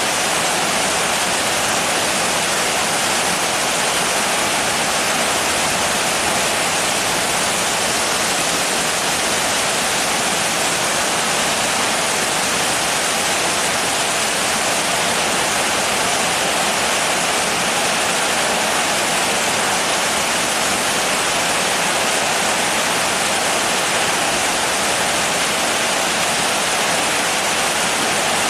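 Steady rain, a dense even hiss with no separate drops, thunder or gusts standing out.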